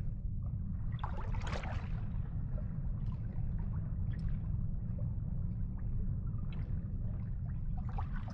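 Water splashing and lapping in short bursts, the biggest about a second in and smaller ones every second or two, over a steady low rumble.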